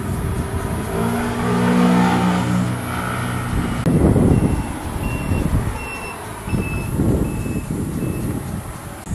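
Motorcycle engines passing on the road, with a loud surge of engine noise about four seconds in. Over it comes a row of about six short, evenly spaced high beeps.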